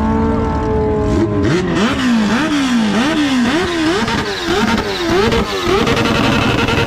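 A vehicle engine revved hard: held at high revs, then a quick run of repeated throttle blips, the pitch climbing and dropping each time, then held steady at high revs again near the end.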